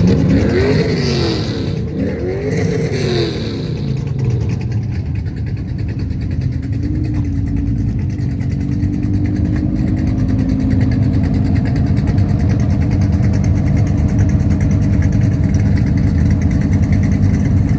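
A car engine revved twice in quick succession, then settling into a steady idle with a brief light blip of the throttle.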